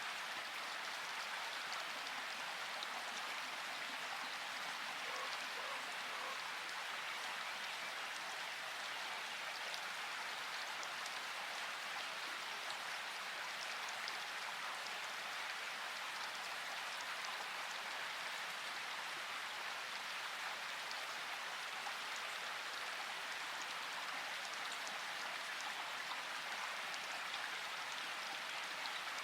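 Steady rainfall, an even patter of raindrops with fine scattered drips.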